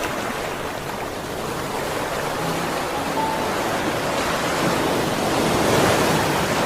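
Ocean waves washing in, a steady rush that swells to its loudest about six seconds in, with soft background music faintly underneath.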